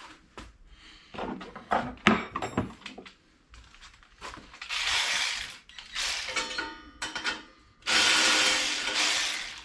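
A cordless power tool with a socket runs in two bursts of about a second and a half each, backing out the exhaust bolts on a Briggs & Stratton mower engine. Metal clinks and knocks of tool handling come before the bursts.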